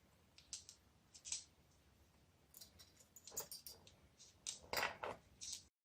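Scattered light clicks and taps, a few at first and a quicker cluster near the end.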